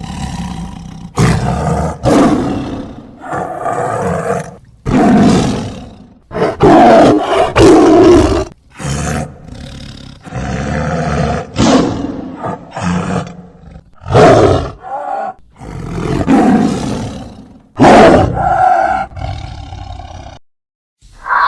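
A big cat, lion or tiger, roaring over and over in a long series of separate roars, each about a second long with short gaps between them.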